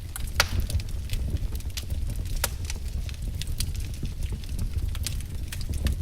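Wood fire crackling, with irregular sharp pops and snaps over a steady low rumble; a louder pop about half a second in and another near two and a half seconds.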